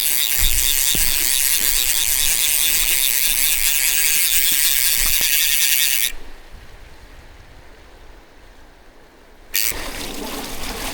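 Fly reel's drag buzzing steadily as a hooked steelhead runs and pulls line off the spey reel. It stops suddenly about six seconds in as the fish comes off, having bent the hook. Near the end the steady rush of the river comes in.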